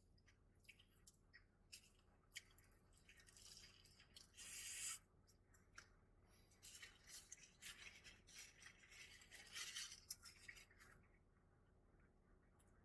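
Faint eating sounds: scattered soft crunching and rustling while a sandwich and chips are eaten, with a longer, louder rustle about four to five seconds in.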